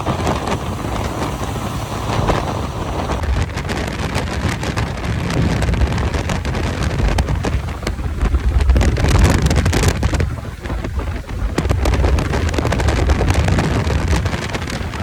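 Heavy wind noise buffeting the microphone over the low, steady rumble of a vehicle moving at road speed.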